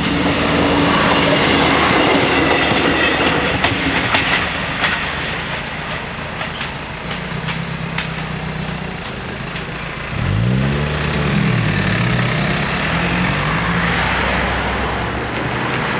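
Regional train passing over a level crossing, its wheels clicking over the rail joints, easing off over the first half. About ten seconds in, a waiting car's engine starts pulling away, its pitch rising and dipping as it accelerates.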